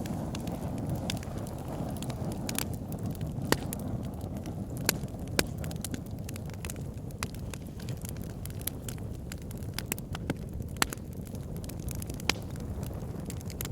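Wood fire in a log burner crackling, with a steady low roar of the flames and irregular sharp pops and snaps from the burning logs.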